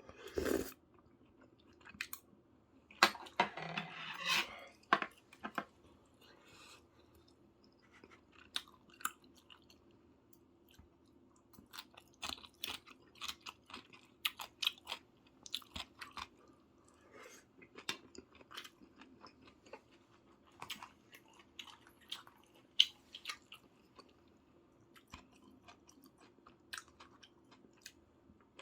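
A person chewing and eating soy-braised chicken (jjimdak): irregular short wet clicks and smacks throughout, with denser, louder mouthfuls in the first five seconds or so.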